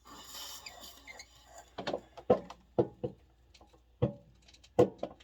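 A short hiss, then a series of sharp knocks and clunks, about six of them spread irregularly over three seconds.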